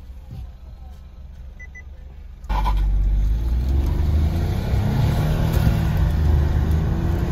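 Kia Sonet's 1.0-litre three-cylinder turbo-petrol engine, heard from inside the cabin, launching hard from a standstill: after a quiet idle, the loud engine and road noise come in suddenly about two and a half seconds in, and the engine's pitch climbs as it accelerates.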